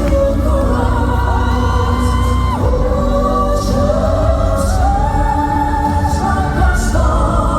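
Male crossover vocal quartet singing long held notes with sliding pitch over a live band accompaniment, heard through the hall's sound system.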